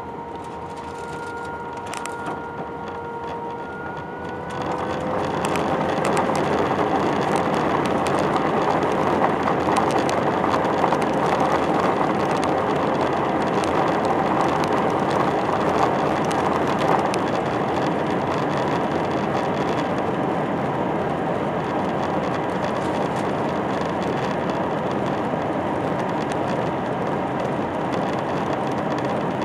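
Airbus A320-232's IAE V2500 jet engines spooling up for takeoff: a steady whine rising slightly in pitch, heard inside the cabin. About five seconds in, the engines reach takeoff power and a loud, steady roar takes over for the takeoff roll.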